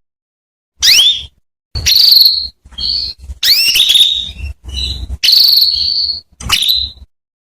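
Female domestic canary calling: a series of about seven short, high chirps, some sweeping quickly upward and some held as buzzy trills, with brief pauses between them. This is the kind of call used to prompt a male canary to sing.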